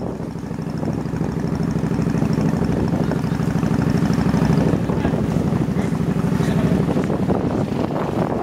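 Small motorbike engine running under way, its hum swelling over the first few seconds, with wind buffeting the microphone.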